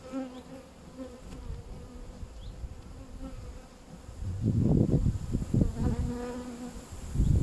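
Honeybees flying around an open hive, their wingbeat hum rising and falling as single bees pass close to the microphone. A loud low rumble on the microphone sets in about four seconds in and eases off near the end.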